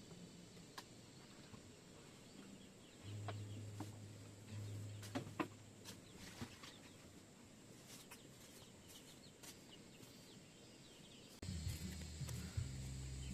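Faint chicken clucking with scattered sharp clicks, and a low hum that comes in twice.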